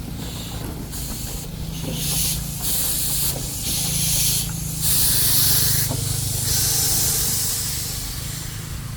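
Steam locomotive letting off a run of hissing bursts of steam that grow longer and louder, the loudest about five seconds in, over a steady low hum.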